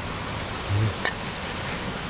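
A steady hiss of outdoor noise, with a soft low thump a little under a second in and a single sharp click just after it.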